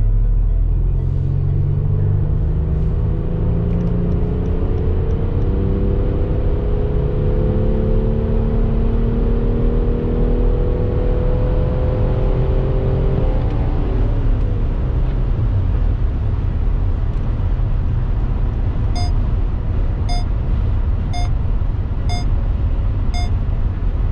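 BMW X6 M50d's tri-turbo N57 three-litre straight-six diesel pulling hard in fifth gear, heard from inside the cabin, its note climbing steadily as the car runs up to over 200 km/h. After about 13 seconds the engine note falls away and the car coasts with a steady roar of wind and tyre noise. Near the end five short beeps sound about a second apart.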